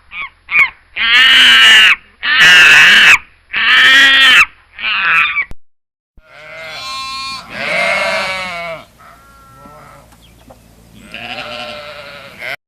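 Goats bleating: a run of short and long bleats, three of them loud and about a second long, then, after a brief break, more bleats at a lower level.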